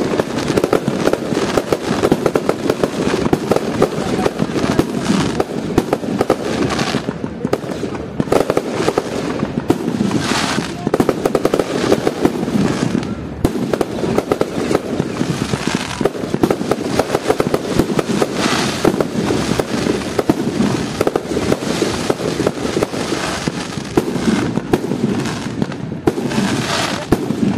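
Fireworks display: a dense, continuous barrage of aerial shells bursting and crackling, with louder flurries of crackle every several seconds.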